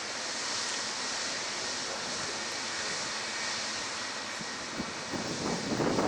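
Jet aircraft engines, a steady rushing noise. From about five seconds in, wind buffets the microphone in loud irregular gusts.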